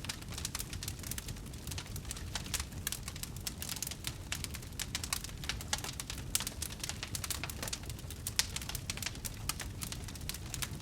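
Wood fire crackling, with dense, irregular snaps and pops over a steady low rumble.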